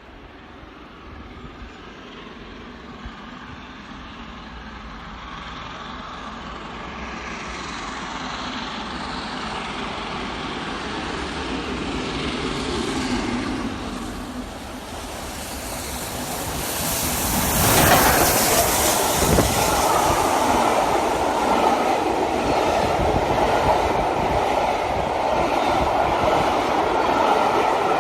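Peppercorn A1 Pacific steam locomotive 60163 Tornado (three-cylinder 4-6-2) approaching and passing at speed with its train, growing steadily louder until the locomotive passes about 18 seconds in. Its coaches then keep rolling by with a steady rumble of wheels on rail.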